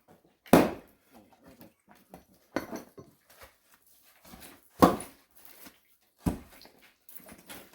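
Axe blows splitting firewood: four sharp chops about two seconds apart, the first and third the loudest.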